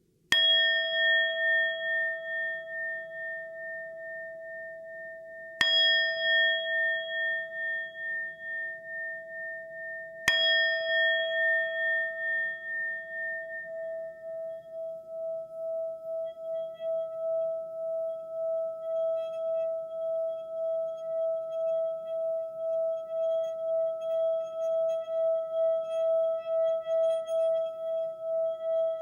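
A singing bowl struck three times, about five seconds apart, each stroke ringing out with a clear tone and higher overtones. From about twelve seconds in, the note is held as one long, evenly wavering tone that slowly grows louder.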